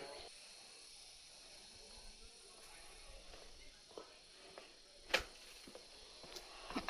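Insects keeping up a steady, faint high-pitched buzz, with a few scattered footsteps, the loudest about five seconds in.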